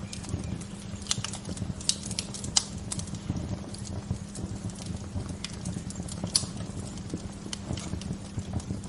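Wood fire crackling, with irregular sharp pops and snaps over a low, steady rumble; a few louder pops stand out, about two and a half and six and a half seconds in.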